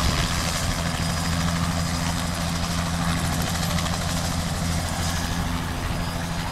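Helicopter flying overhead: a steady low hum from its engine and rotor over an even hiss, easing slightly near the end.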